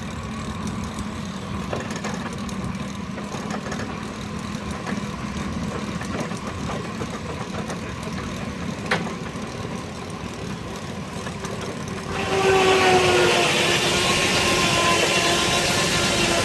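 Steam-driven sawmill running steadily, with a sharp click about nine seconds in. About twelve seconds in, the circular saw blade enters a log and a loud whine with several tones starts, slowly falling in pitch as the blade takes the load.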